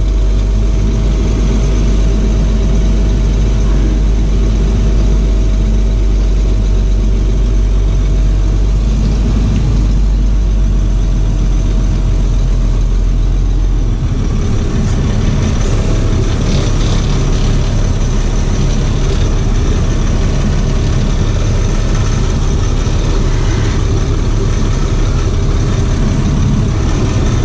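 Box truck's engine running steadily; about halfway through the deep low note drops away and the sound turns rougher and noisier.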